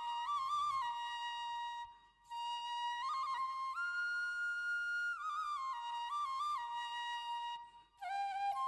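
Solo flute melody as background music, with long held notes and quick ornamented turns. It breaks off briefly twice, about two seconds in and near the end.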